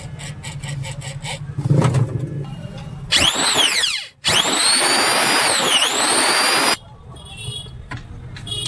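Electric angle grinder running at full speed with a loud high whine: it falls in pitch, drops out briefly, then runs again with a short dip in pitch a little past halfway and cuts off suddenly. A thump comes before it starts, with a steady hum and ticking in the background.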